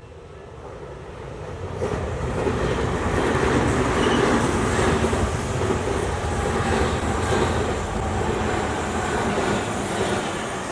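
Tokyu Toyoko Line train passing over a level crossing. Its noise builds over the first two seconds, then holds with a rhythmic clatter of wheels over rail joints. The crossing's warning bell rings faintly under the train at the start.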